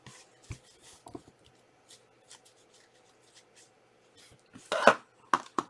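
Trading cards and foil pack wrappers being handled: a string of short scratchy rustles and clicks, louder and more frequent near the end.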